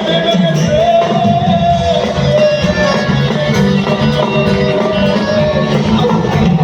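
Music from a band, with guitar over a steady beat and a melodic line holding long notes.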